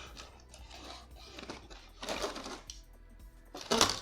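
Background music with a few sharp clicks and rattles of small plastic model parts being handled. The loudest comes shortly before the end.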